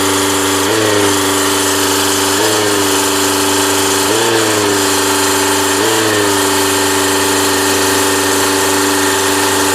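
A motor running with a steady tone that rises briefly in pitch and settles back about every second and a half to two seconds, four times, then holds steady. This is a surging, hunting run.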